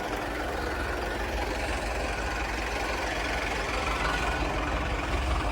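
Diesel tractor engine running steadily at low speed, a deep even chugging with no change in pace.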